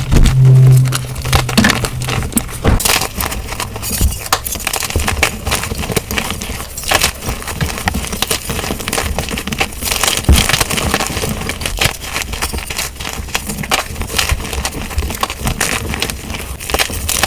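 Dyed gym chalk blocks being crushed and crumbled, a dense run of crackles and crunches, played back at double speed.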